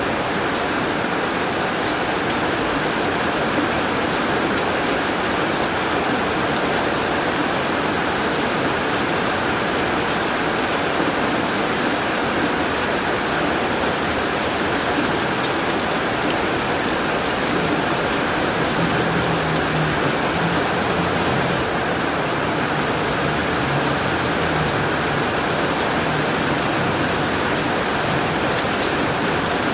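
Heavy rain drumming steadily on a tin roof, a dense even hiss with scattered sharp drop ticks.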